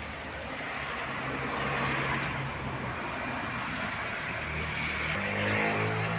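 Sawmill machinery running: a steady motor hum under a hiss that swells twice, first around two seconds in and again near the end.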